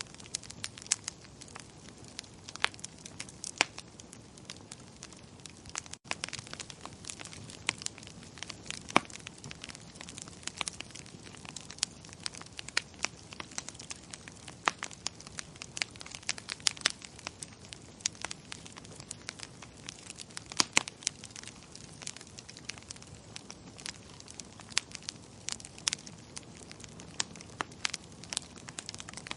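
Wood fire crackling in a fireplace: irregular sharp pops and snaps over a steady low hiss of the flames, with a momentary dropout about six seconds in.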